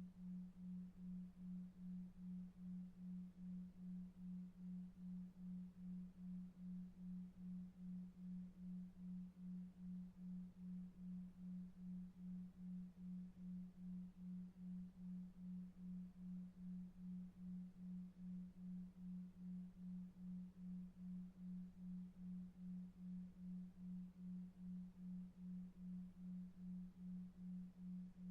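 Faint low pure tone pulsing evenly about two and a half times a second, a 2.5 Hz delta-wave sleep tone, over faint brown noise.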